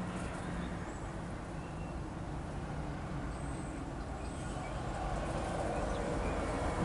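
A steady low rumble that swells slightly near the end, with a few faint, short, high chirps from small songbirds at a feeder.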